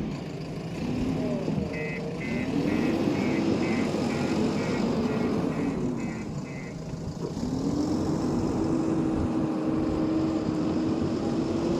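JCB backhoe loader's diesel engine revving up and down repeatedly as it works, then rising and holding at a steady higher speed in the second half. A string of short high beeps, about two a second, sounds over it for several seconds, typical of a reversing alarm.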